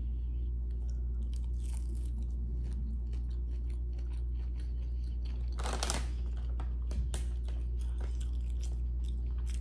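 Close-miked crunchy chewing of a breaded plant-based chicken nugget (Impossible spicy nugget): a run of small crackles throughout, with one louder crunch about six seconds in.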